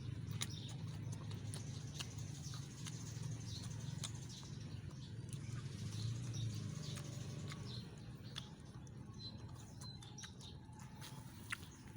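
Crisp chewing of raw vegetables close to the microphone, heard as irregular crunchy clicks, with birds chirping in the background. A low rumble underneath fades out about eight seconds in.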